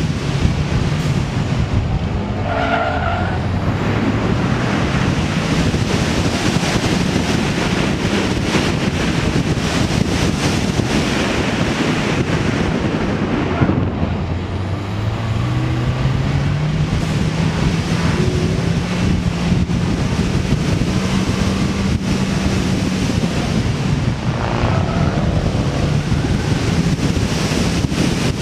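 A small car's engine working hard through an autocross run, its pitch rising and falling with the throttle. The pitch drops sharply about halfway through, then climbs again over a few seconds. Throughout there is steady wind and tyre noise.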